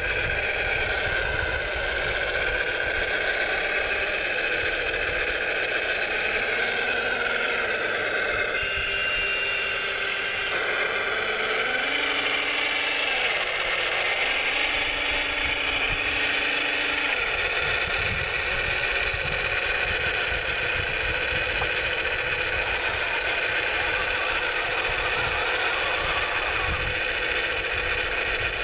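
Radio-controlled model construction machines working: a steady whine of small electric motors and gearboxes, its pitch slowly rising and falling as they drive and load.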